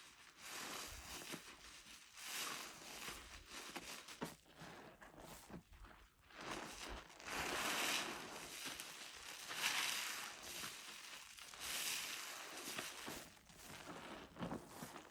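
A soapy sponge, loaded with car wash soap and Zote flakes, squeezed and released over and over, making wet, foamy squelching that swells and fades about every one to two seconds.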